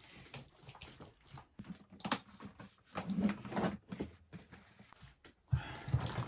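Hands working with craft materials: light clicks and rustles, with one sharp rasp about two seconds in, like tape being pulled or torn.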